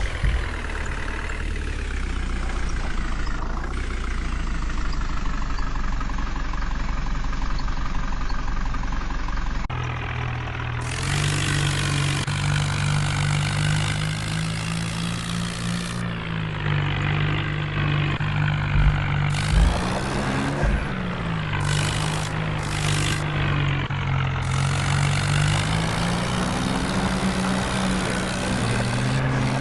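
Diesel tractor engine running, its pitch rising and falling. The sound changes abruptly about ten seconds in, and there are a few short knocks near the middle.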